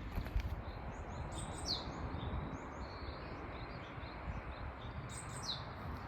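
A songbird sings the same short chirping phrase twice, about four seconds apart, over steady low background noise.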